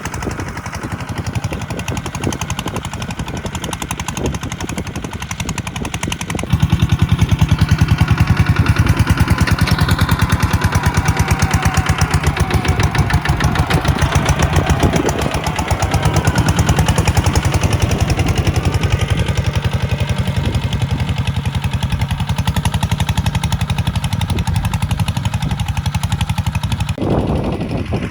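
Diesel tractor engine running with a fast, even firing pulse, getting louder about six seconds in and staying up.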